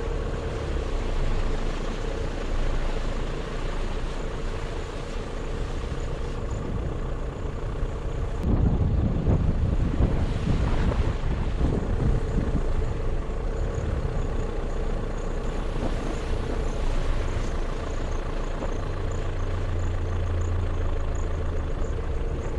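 Motorcycle engine running steadily while riding. Wind buffets the microphone in gusts from about eight seconds in.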